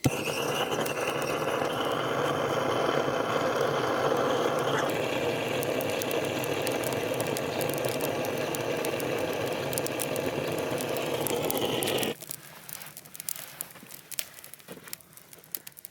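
A steady, machine-like whirring and rushing noise, like a small motor running, that starts suddenly, shifts slightly in pitch about five seconds in, and cuts off abruptly about twelve seconds in; faint crackling clicks follow.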